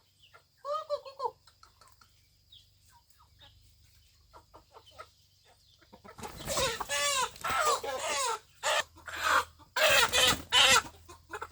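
Chickens clucking: one short call about a second in, then a busy run of loud clucks and squawks from about six seconds on.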